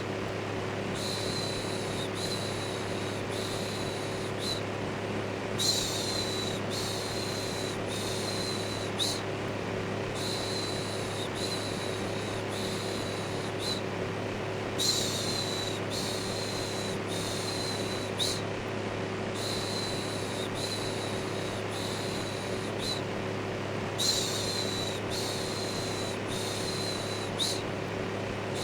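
Electric fan running with a steady whoosh and low hum, overlaid with a repeated 'shhh' shushing sound in strokes about a second long, broken by short pauses every few seconds.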